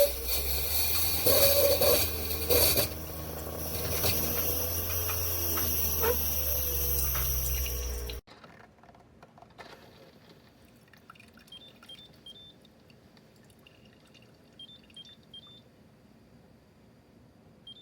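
Single-serve pod coffee maker brewing: a steady low pump hum with hissing steam and gurgling water, which cuts off suddenly about eight seconds in. After that it is nearly quiet, with faint ticks and a few short, high chirps.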